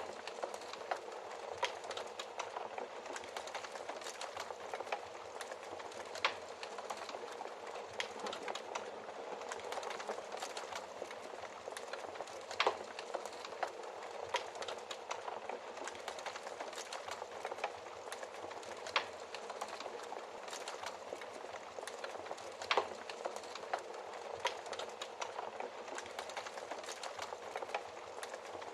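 Wood fire crackling: a steady hiss with irregular sharp pops, a few of them louder than the rest.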